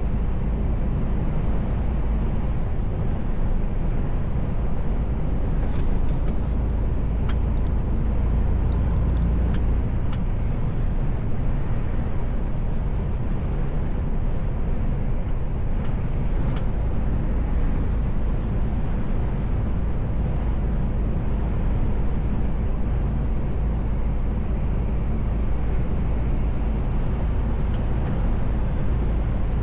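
A Mercedes Actros L truck driving, heard from inside the cab: a steady deep rumble of engine and road noise, with a few short clicks about six to ten seconds in.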